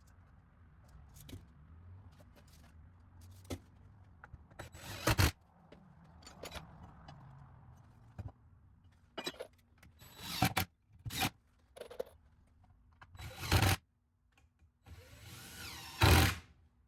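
Power drill running in short bursts, drilling pilot holes and driving screws into 2x4 lumber, with lighter clicks and knocks between the bursts.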